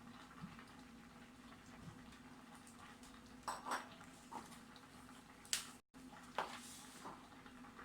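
A metal frying pan and kitchen utensils clinking and knocking: a handful of separate light strikes starting about three and a half seconds in, over a faint steady hum.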